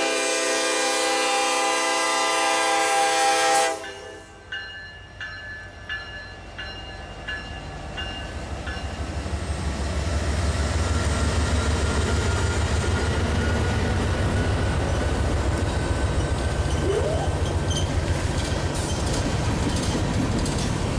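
A Union Pacific freight locomotive's air horn sounds one sustained chord that cuts off about four seconds in. It is followed by rhythmic clicks of wheels over rail joints, then the rumble of the passing freight train, which builds and holds steady.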